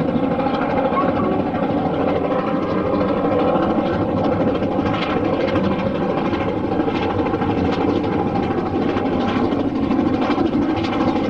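LMS Black 5 steam locomotive running steadily on the main line: a continuous even rumble of the train in motion.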